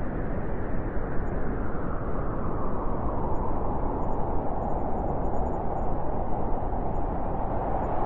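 Blizzard wind blowing steadily, a dense rushing noise, with a howl that grows stronger over the second half.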